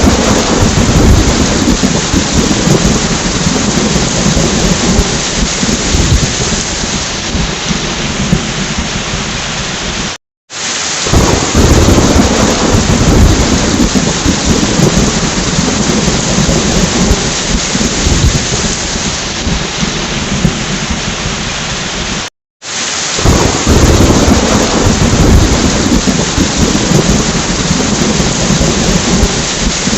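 Thunderstorm: heavy rain with a steady hiss and low rumbles of thunder, the rumble strongest just after each restart. The sound drops out briefly twice, about 10 and 22 seconds in, where a roughly 12-second recording loops.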